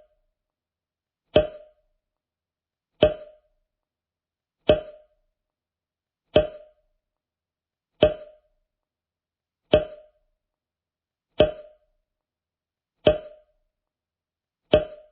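A short percussive sound effect, a sharp hit with a brief ring that dies away quickly, repeated evenly about every 1.7 seconds, nine times in all.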